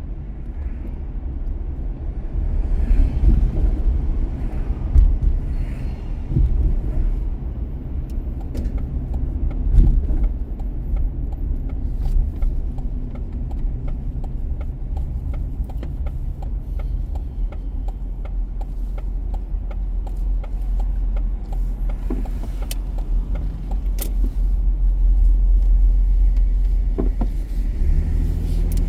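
A car driving on city streets: a steady low rumble of engine and tyre noise, swelling near the end, with a faint regular ticking through the middle.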